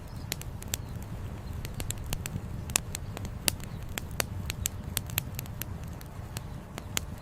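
Campfire of burning firewood crackling, with many irregular sharp pops, the loudest about three seconds in, over a steady low rumble.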